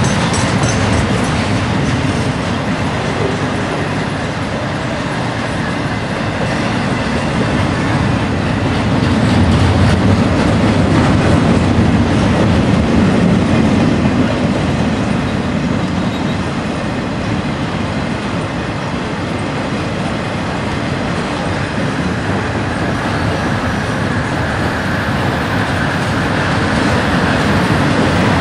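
Intermodal freight train cars, trailer flatcars and double-stack container cars, rolling past close by: a continuous noise of steel wheels on rail that swells a little about ten seconds in.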